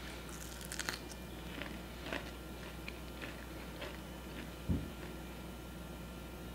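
Mouth biting into and chewing a crispy breadcrumb-coated fried chicken nugget, with faint scattered crunches. A single short low thump comes a little under five seconds in.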